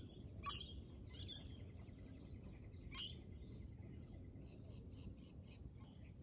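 Small birds chirping, with a run of short, quick high notes near the end, over a steady low background rumble; a single sharp click about half a second in is the loudest sound.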